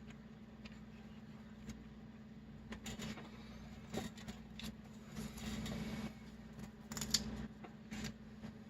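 Small clicks, taps and short scratchy rustles of hands handling a plastic scale model and its masking tape, with a longer rustle of about a second midway, over a steady low hum.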